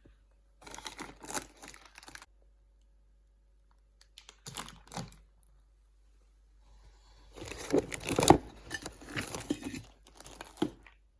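Crinkling and tearing handling noise in three bursts: a short one near the start, a brief one about four and a half seconds in, and a longer, louder one from about seven and a half to nearly eleven seconds.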